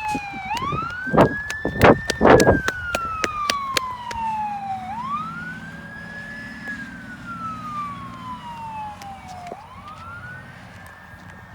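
Fire station siren wailing in slow cycles, each rising quickly and then falling slowly over about four seconds, about three times. A few loud thumps come in the first three seconds.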